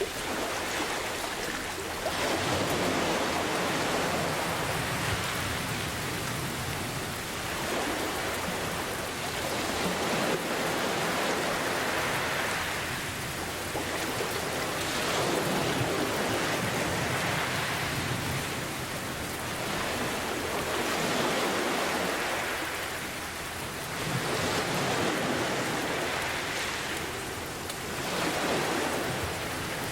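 Steady rain mixed with ocean surf, the wash swelling and receding slowly every few seconds.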